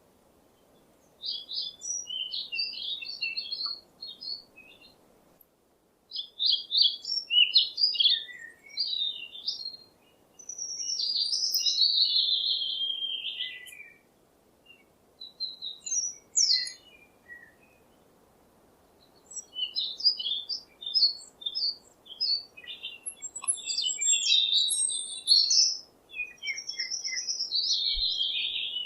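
Songbirds singing: several bursts of high, rapid chirping and warbling with pauses of a second or two between them. Two longer phrases slide downward in pitch.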